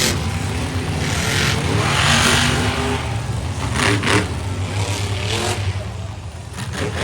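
Monster truck engine running with a steady low rumble and revving in surges, swelling about two seconds in and again sharply near four and five and a half seconds.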